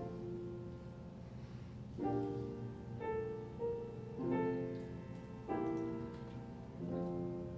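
Piano playing slow chords, each struck and left to ring out.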